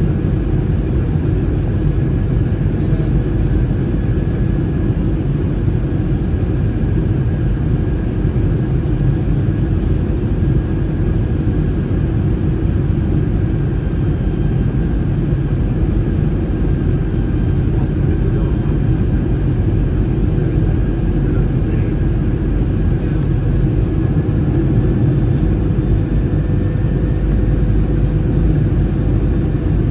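Steady low roar inside an Airbus A319's cabin in flight: CFM56 engine noise and airflow, with a faint steady hum over it.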